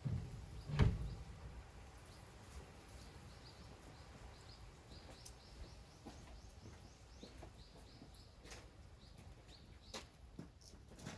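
A dull low thump near the start, then a small bird calling in a long series of short high chirps, a few a second, with a few faint sharp clicks near the end.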